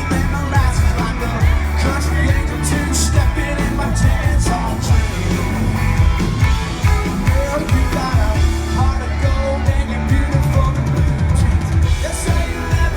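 A live country band playing at full volume, with a male lead vocal over electric guitars, bass and a driving drum beat.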